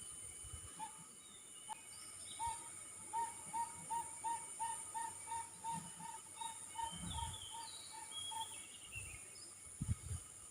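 Tropical forest ambience: a bird calls a long run of evenly spaced, hollow whistled notes, about three a second, starting a couple of seconds in and stopping about two seconds before the end, while other birds chirp higher up. Insects keep up a steady high-pitched drone, and there are a few low thumps near the end.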